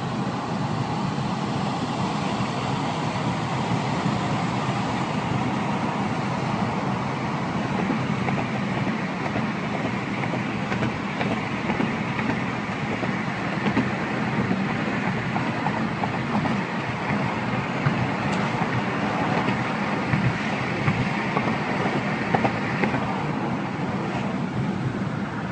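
Steady road noise of a vehicle driving: tyre and engine noise with a few small clicks and knocks.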